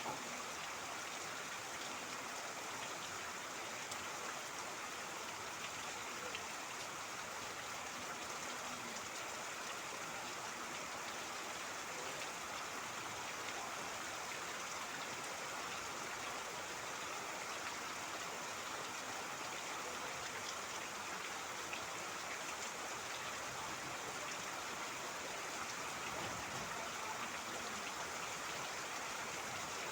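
Steady rain falling, mixed with running, trickling water, an even unbroken wash of water noise with fine patter of drops.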